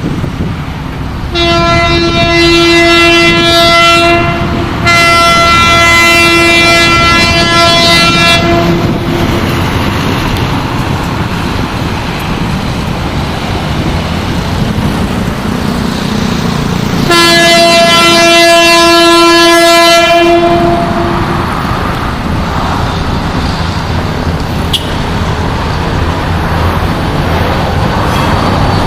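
Horn of GT22CW diesel locomotive 9026 sounding three long chord blasts as a greeting: two close together near the start, and a third about eight seconds later. Steady rumble of the arriving passenger train runs underneath.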